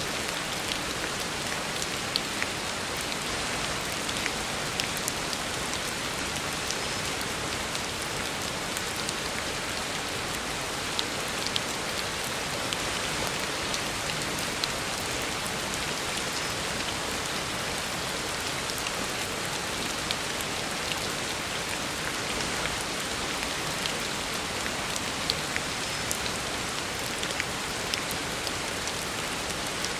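Heavy rain falling steadily on a road, a constant hiss with scattered sharper drop splashes.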